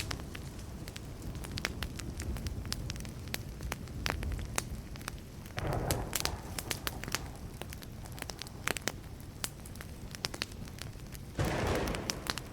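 Wood fire crackling and popping, with many sharp snaps over a low steady rumble. Two louder rushing swells come through, one about halfway and one near the end.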